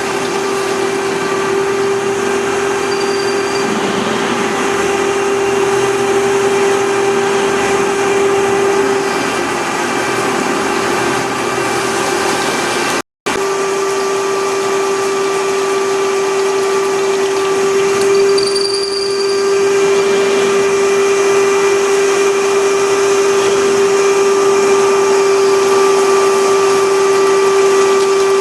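Industrial drilling machine running steadily: a constant high spindle whine over the machine's noise, cutting out for a split second about thirteen seconds in.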